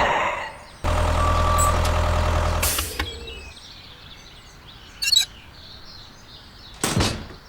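Small motor of a toy mini tractor running with a steady low hum for about two seconds, then stopping. It is followed by a quieter stretch with two short bursts of noise.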